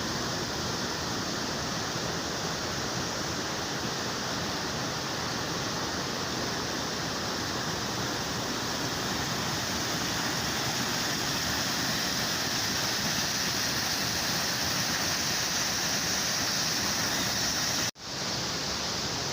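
Steady rushing of flowing water, an even noise that drops out for an instant near the end before resuming.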